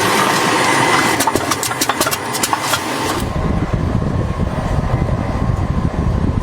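Machinery noise: about three seconds of hissing with rapid sharp clicks, then an abrupt switch to a steady low drone of running machinery.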